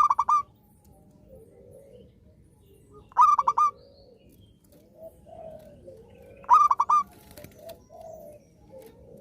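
Zebra dove (perkutut) singing its song: three short phrases of quick, clipped coos about three seconds apart, with softer, lower cooing between them.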